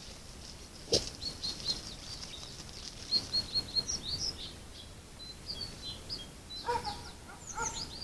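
Small birds chirping, many short high calls in quick runs. There is a sharp knock about a second in, and a few lower, harsher calls near the end.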